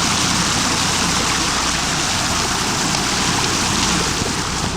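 Steady rush of stream water during a stream crossing on stones, with heavy rain falling.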